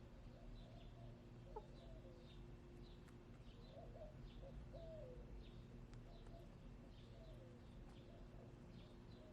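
Faint bird sounds: soft low calls that rise and fall every second or so, over small birds chirping steadily about twice a second, with a faint steady hum underneath.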